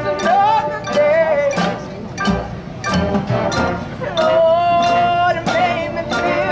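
High school marching band playing: held melodic notes, some bending in pitch, over repeated sharp percussion strikes.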